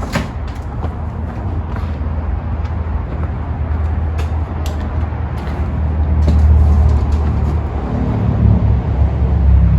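Low rumble of a motor vehicle's engine, growing louder in the second half, with a few light clicks over it.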